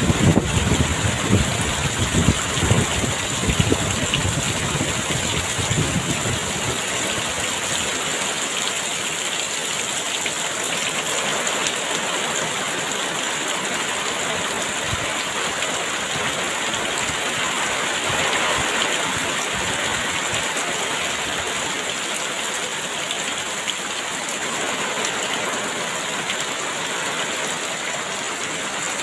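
Heavy rain pouring down in a dense, steady hiss. Gusts of strong wind rumble low through the first six seconds or so, then die away.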